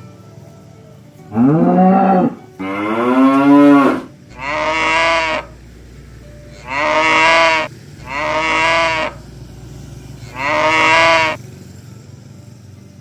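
Oxen mooing: six loud calls in a row. The first two are long and bend in pitch; the last four are shorter, about a second each, and sound alike.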